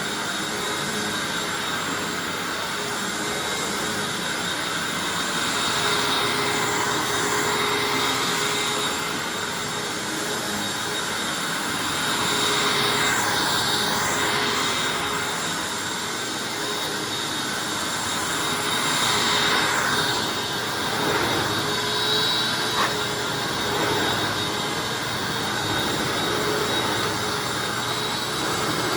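Hoover Anniversary upright vacuum cleaner running steadily as it is pushed over carpet, picking up a test mess. Its loudness swells and eases every few seconds as it moves.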